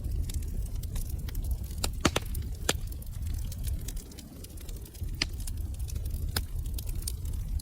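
Wood fire in a fireplace crackling, with irregular sharp pops, several of them louder, over a steady low rumble of the burning.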